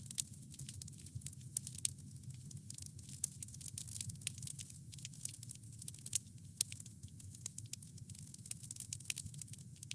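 Wood campfire crackling: dense, irregular snaps and pops over a low, steady rumble, with a few sharper pops standing out.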